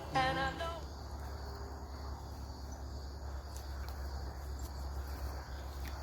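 A held note of background music ends in the first second. It gives way to outdoor ambience: a steady low rumble with faint insect chirring, typical of crickets.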